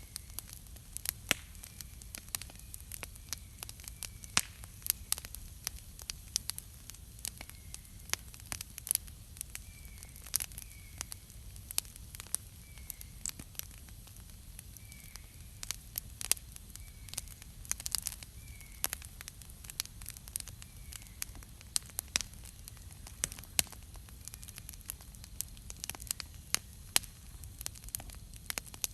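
Wood campfire crackling, with frequent sharp pops and snaps over a low steady rumble. A bird gives short, faint chirps every second or two.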